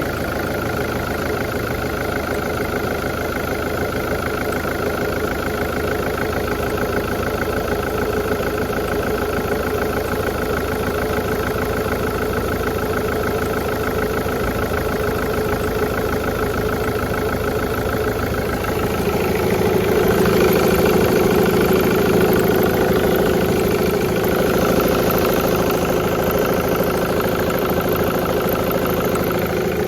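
Diesel car engine idling steadily, growing somewhat louder about two-thirds of the way through.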